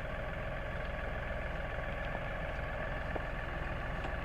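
LS tractor's diesel engine running steadily with an even, unchanging note.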